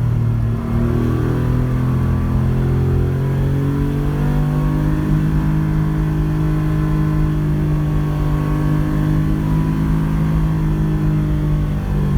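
Porsche 911 rally car's flat-six engine pulling under load. The engine note dips about half a second in, climbs slowly over the next few seconds, holds fairly steady, then falls off near the end.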